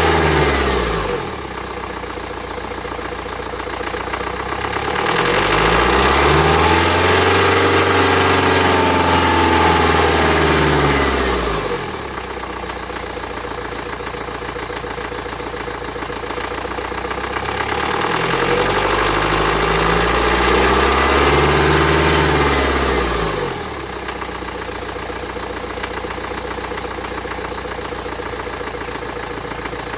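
2009 BMW X1's 2.0-litre N47 four-cylinder diesel engine, falling back to idle about a second in, then revved up and held for several seconds twice before dropping back to idle. The uploader takes its unusual noise for a sign of turbocharger damage.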